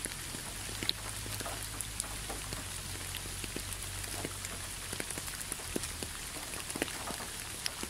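Rain ambience: a steady hiss of rain with many separate drops ticking.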